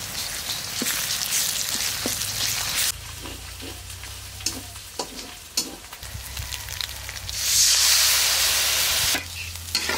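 Food sizzling as it fries in hot oil in a pan while a spoon stirs it, with scattered knocks of the spoon against the pan; ginger, garlic and cumin paste has just gone in. The sizzle rises sharply for about two seconds shortly before the end.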